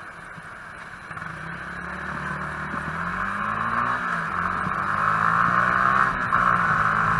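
Vehicle engine running amid road and wind noise, growing steadily louder, with its pitch rising and falling briefly about four seconds in.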